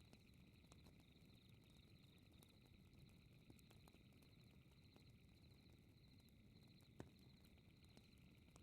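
Faint fireplace crackling: a soft low fire hiss with scattered small pops and one sharper pop about seven seconds in. Under it runs a steady, rapidly pulsing high chirp of night insects.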